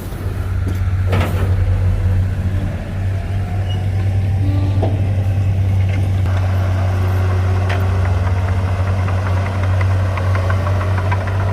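Heavy diesel engine of earthmoving machinery running steadily with a deep drone, with a single sharp knock about a second in.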